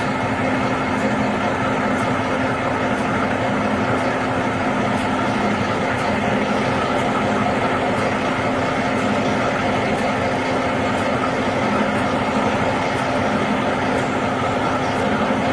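A vehicle engine idling steadily, with a low hum and faint ticking about once a second.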